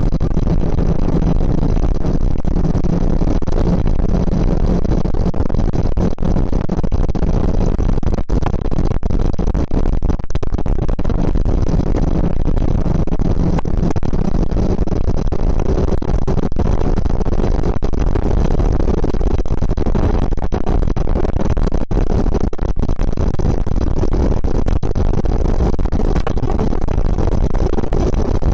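Suzuki GSX650F's inline-four engine running steadily while the motorcycle is ridden, heard through a dense, loud rumble of rushing air on the bike-mounted camera.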